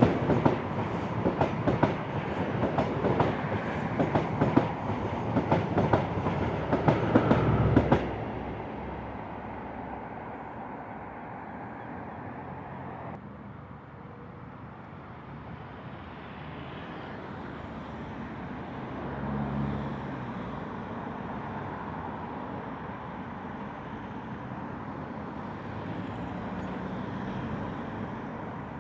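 Passenger train passing, its wheels clicking and clattering over the rail joints, until the noise drops away abruptly about eight seconds in. A much fainter steady rumble of rail traffic follows.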